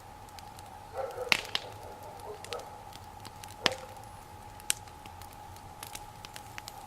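Bonfire of raspberry canes and boards crackling, with a few sharp pops from the burning wood. A bird calls in short wavering notes from about one to two and a half seconds in.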